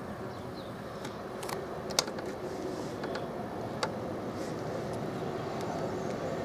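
Approaching electric-locomotive train: a steady rumble of wheels on rail that grows slowly louder, with a few sharp clicks, the loudest about two seconds in.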